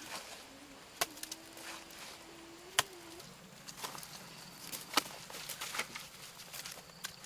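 A few sharp, separate knocks or chops, a second or two apart, the loudest about three seconds in. A low steady tone runs under the first half.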